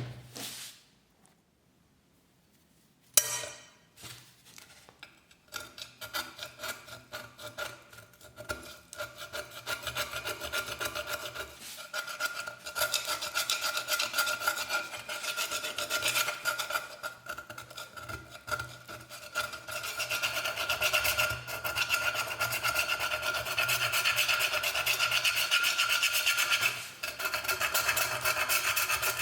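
Two sharp knocks, the second the loudest, then rapid back-and-forth scraping and rubbing on a metal shell-casing cup during rust removal, starting about five seconds in and growing steadier and louder, with a steady ringing tone under the strokes.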